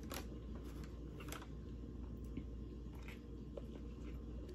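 Faint biting and chewing of a crispy fried chicken sandwich: a few soft, scattered mouth clicks and crunches over a low, steady background hum.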